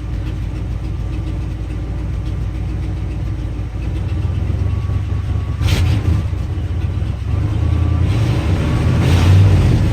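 1978 Ford F-250's 400M 6.6-litre V8 running cold just after a cold start, with a steady low idle that swells louder about halfway through and again near the end as the throttle is worked.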